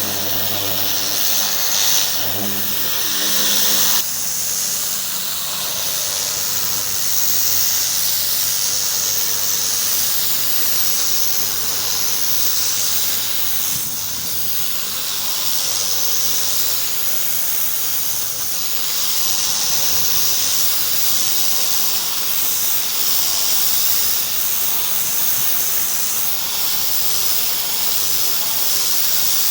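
A pressure washer spraying, a loud steady hiss of water from the wand; for the first few seconds a motor hum runs underneath, dropping away about four seconds in.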